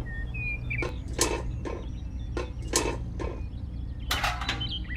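A series of sharp taps or knocks, roughly one or two a second, with a closer cluster about four seconds in. Under them runs a steady low hum, and a bird chirps briefly near the start and near the end.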